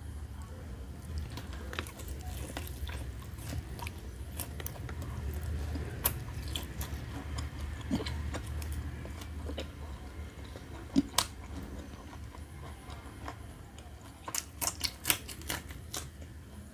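Close-up chewing and biting of roast chicken meat: wet mouth noises with scattered sharp clicks, bunching into a quick run of clicks near the end, over a steady low hum.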